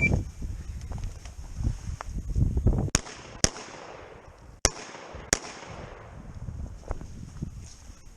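Revolver shots fired on a competition shooting stage: four loud, sharp cracks in two close pairs, the second pair about a second after the first, with fainter shots in between.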